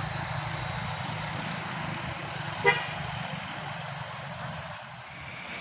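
A road vehicle's engine running steadily at a low pitch, with one short horn toot about two and a half seconds in.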